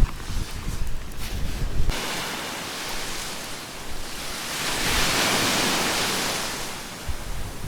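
Sea waves washing onto a beach, one wave swelling and receding about five to six seconds in, with wind buffeting the microphone in the first two seconds.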